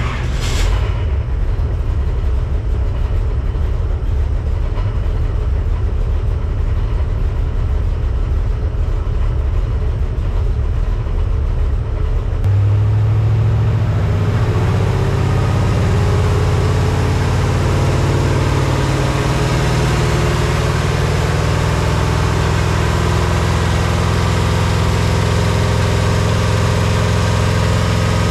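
Ford 400 V8 with a hydraulic roller cam running on an engine dyno, idling with a low, pulsing note. About twelve seconds in its speed picks up and it settles into a steadier, higher tone.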